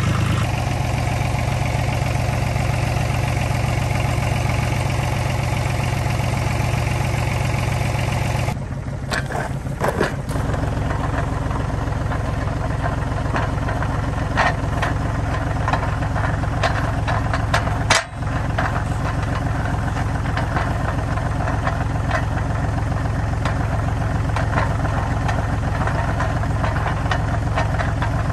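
Farm tractor engine running steadily, its sound changing abruptly about eight and a half seconds in, with scattered knocks and rattles over it.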